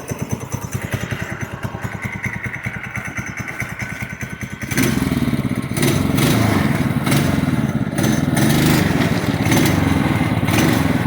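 Homemade trike's small engine running at low revs with steady, distinct firing pulses. About halfway through it suddenly gets much louder and revs up and down.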